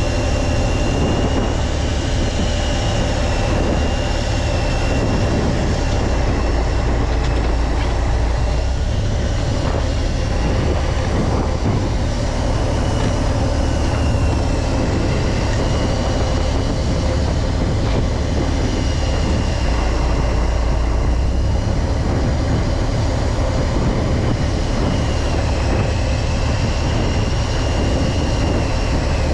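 Fishing boat's engine running steadily under way: a constant low drone with a thin whine above it that slowly wavers in pitch.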